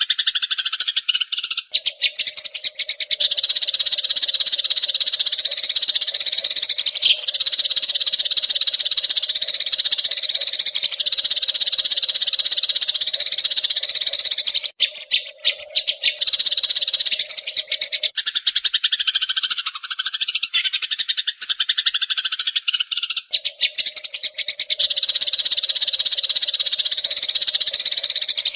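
Eurasian tree sparrows chirping and chattering in a dense, rapid, continuous stream, with a short break about halfway through and a lower-pitched stretch after it.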